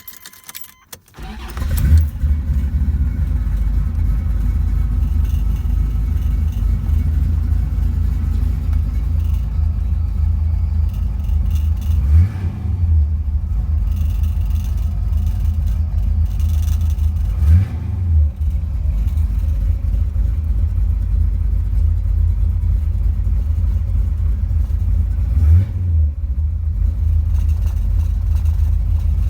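Chevy 383 stroker small-block V8 cold-started: a moment of cranking, then it catches with a flare of revs and settles into a steady idle. Three short throttle blips come later, near the middle and toward the end.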